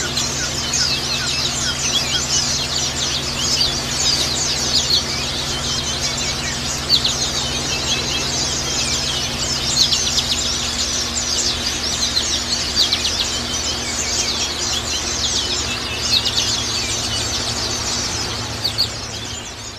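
Several white-eyes (pleci) chirping and twittering without pause: a dense stream of short, thin, high calls, of the kind played as a lure to draw the birds in and set them singing. A faint steady low hum runs underneath.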